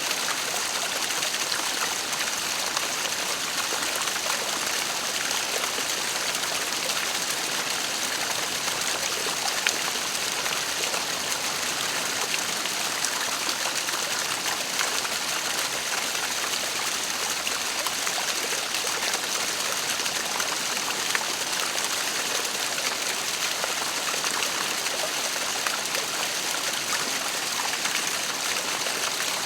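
Waterfall: a steady rush of falling water with a fine splashing hiss.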